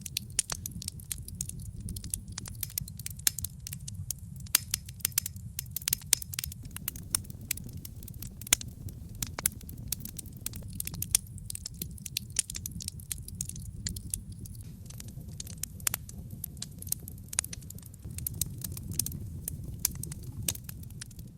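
Wood logs burning in a fireplace: a steady low rumble of flames with frequent irregular sharp crackles and pops.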